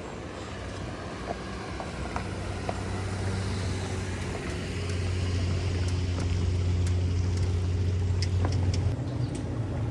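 A low engine hum that grows louder over several seconds and drops off about nine seconds in, with a few light clicks.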